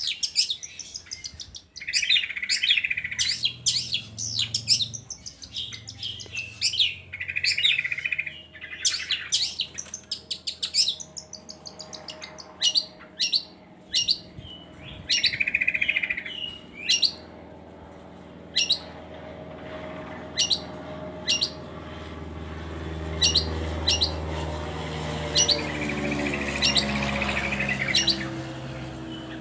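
Long-tailed shrike (cendet) singing: a run of sharp, high chirps broken by a few harsh rasping calls. A low drone swells in the background in the last third.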